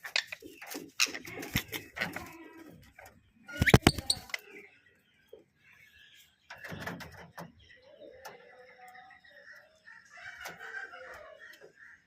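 Monk parakeet calling and chattering in short bursts, with sharp clicks through the first couple of seconds and a loud bump about four seconds in.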